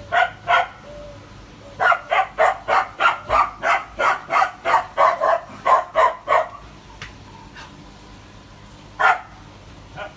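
A dog barking. Two barks, then a quick run of barks lasting about four seconds, then a single bark near the end.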